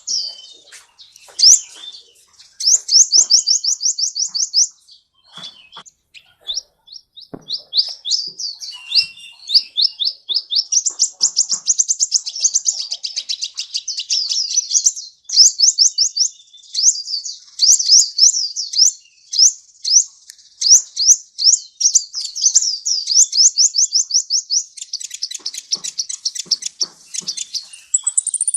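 Kolibri (sunbird) song: high, rapid trills of short downward-sweeping notes, delivered in phrases of a few seconds with brief pauses between them.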